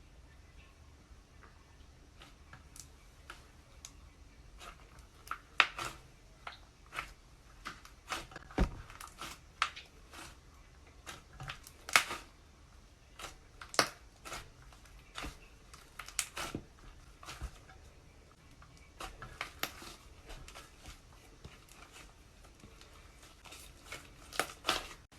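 Slime being squeezed and mixed by hand, giving irregular sticky pops and clicks with quiet gaps between them.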